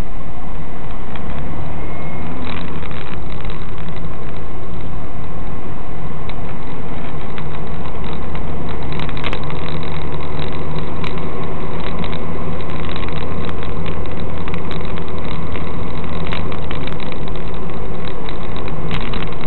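Car engine idling, heard from inside the cabin through a dash cam's microphone as a steady low hum. From about halfway through, many sharp clicks and crackles come over it.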